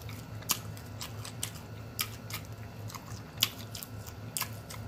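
Close-miked chewing and lip-smacking while eating fried chicken, with sharp wet smacks about once a second over a low steady hum.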